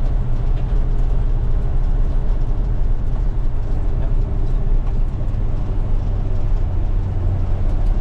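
1980 Chevy K20 pickup driving, heard from inside the cab: a steady low engine and road rumble.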